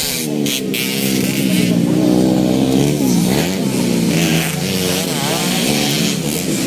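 Several motocross bikes' engines revving as they race around the track, their pitch sliding up and down, with one dipping and climbing again around the middle.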